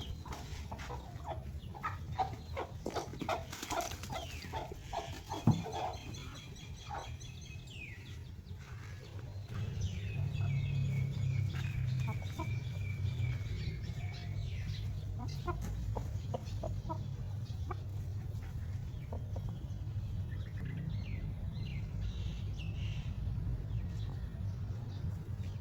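Chickens clucking and calling, with scattered clicks and a steady low rumble underneath that grows louder about ten seconds in.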